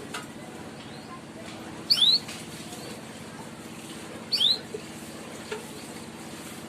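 Canary giving its short rising 'cuit' call twice, a couple of seconds apart, each a quick upward-sweeping double whistle, over a faint steady low hum. It is the lure call played to coax young or lazy canaries into singing.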